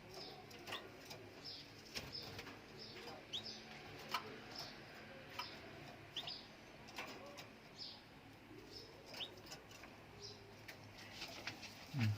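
Canaries giving faint, scattered short chirps and quick falling calls, spaced out rather than in full song.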